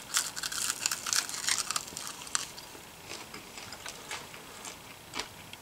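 Biting and chewing into a crispy deep-fried squirrel leg: a dense crackle of crunches for about the first two seconds, then slower chewing with a few separate crunches. The crunch shows the leg is fried crisp.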